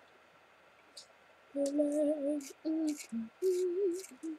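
A young woman singing a tune to herself in held, slightly wavering notes, starting about a second and a half in after a quiet moment.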